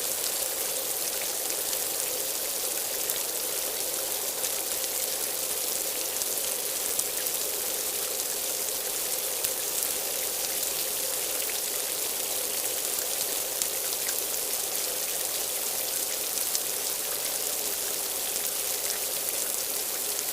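Steady rain falling, with a constant hiss and scattered individual drops ticking.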